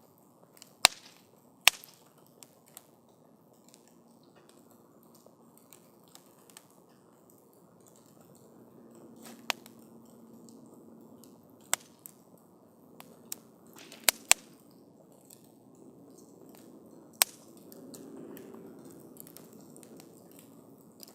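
Wood campfire crackling: irregular sharp pops and snaps, a handful of them loud, over a low steady rushing of the flames that grows a little stronger about eight seconds in.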